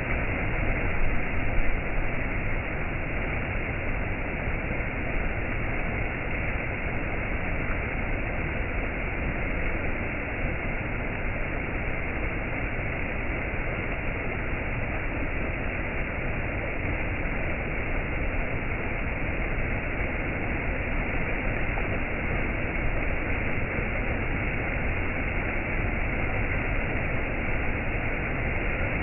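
Steady rushing of a waterfall, an even wash of falling water with no breaks, a little louder for a moment about a second in.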